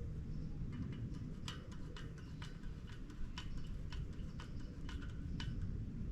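Irregular light clicks, two or three a second, from a bird guard being fitted and fastened onto a chimney pot, over a steady low rumble.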